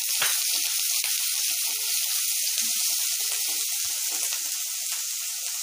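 Ginger-garlic paste frying in hot oil in a nonstick kadhai, a steady sizzle as it is stirred with a wooden spatula.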